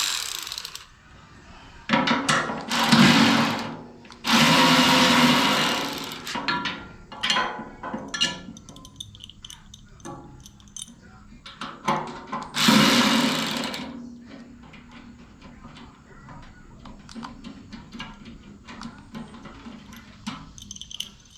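Power drill running in three bursts of a couple of seconds each, backing out the screws around the wood chipper's housing, with clicks and rattles of screws and tools between.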